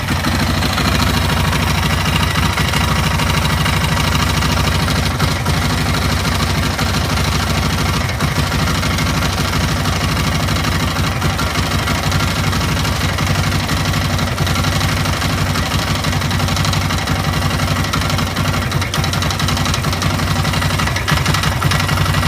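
Yamaha Raptor 660R's single-cylinder four-stroke engine idling steadily with a knock coming from the engine, which is the fault being recorded.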